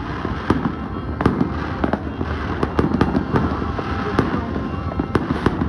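Many fireworks going off at once: sharp bangs at irregular intervals, about one or two a second, over a dense steady background of more distant fireworks.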